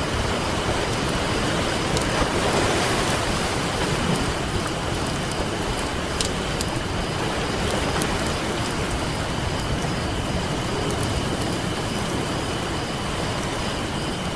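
Ocean surf washing steadily with a campfire crackling over it, its sharp pops and snaps scattered through, and a wave swelling briefly about two seconds in.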